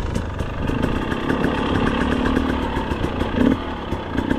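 Two-stroke engine of a 2025 GasGas EC 300 dirt bike running at low revs, with a brief rise in the engine note about three and a half seconds in.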